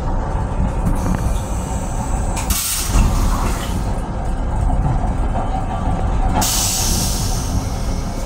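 Steady low rumble of a Metro-North M7 electric railcar under way, heard from inside its restroom, with a brief hiss about two and a half seconds in and a longer hiss from about six and a half to eight seconds.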